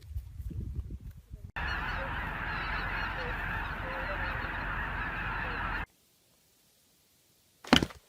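A dense, continuous chorus of many birds calling at once, goose-like honking, which stops abruptly about six seconds in. A brief loud sound comes near the end.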